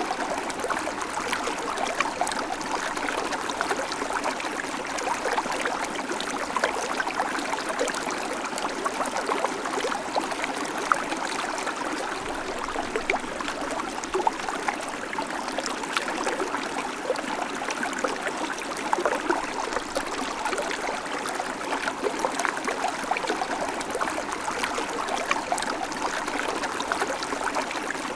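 A shallow creek babbling steadily over stones, with many small splashes and trickles running through the rush of the water.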